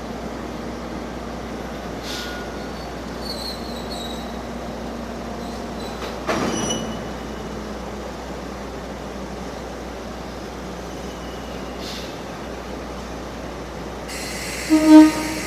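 Limestone freight train moving slowly through a station yard: a steady rolling rumble with faint wheel squeals, a clank about six seconds in, and a short, loud horn toot from the locomotive near the end.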